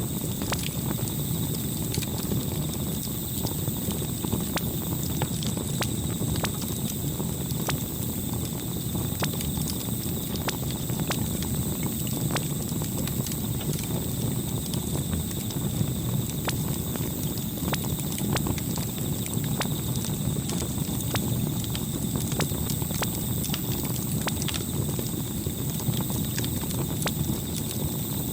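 Campfire crackling: irregular sharp pops and snaps over a steady low rumble of the burning fire, with a faint steady high tone behind it.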